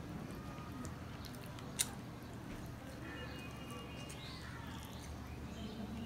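Close-miked chewing and mouth sounds of a person eating luchi (puffed fried flatbread) with potato curry by hand, with one sharp click about two seconds in.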